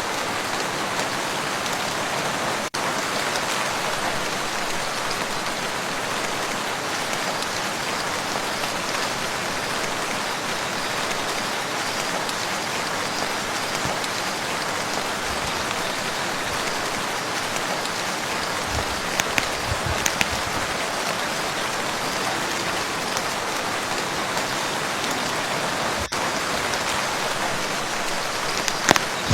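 Steady rain falling on a lake, an even hiss of many drops. A few louder drops with low thuds stand out about two-thirds of the way in and again near the end.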